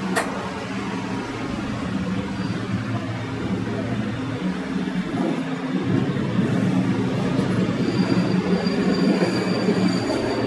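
Passenger train running along the track, a steady rumble of wheels on rail. There is a sharp click just after the start, and a thin high wheel squeal comes in over the last few seconds.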